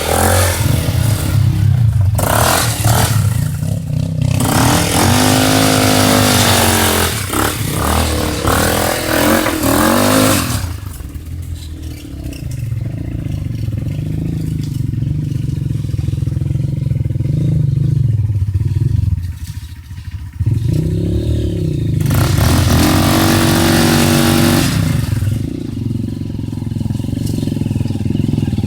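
ATV engine running and revving up and down, with a rushing noise over the faster stretches. It eases off briefly about two-thirds of the way through.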